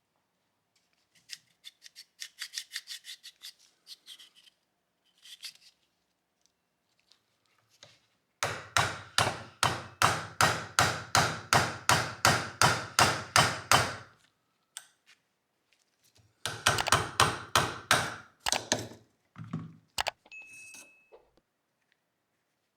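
Hand tool worked back and forth over a pistol's metal parts in quick rhythmic strokes, about three to four a second, in two loud runs, the first lasting about five seconds, with lighter strokes before them.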